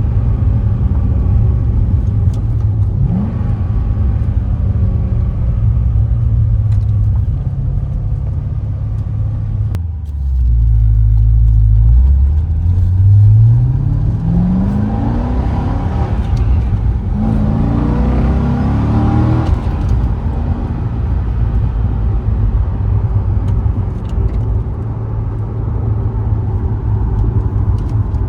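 2007 Corvette Z06's LS7 V8 engine running at a steady cruise, then accelerating hard about halfway through. It gets louder and climbs in pitch twice with a gear change between, then settles back to a steady cruise.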